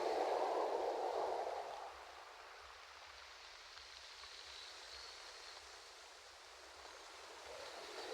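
Ocean waves washing onto a shore: the wash of one wave fades after about two seconds, then the surf swells again near the end.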